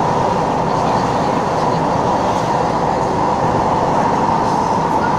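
Interior running noise of an SMRT Siemens C651 metro train travelling between stations: a steady rumble with an even whine running through it.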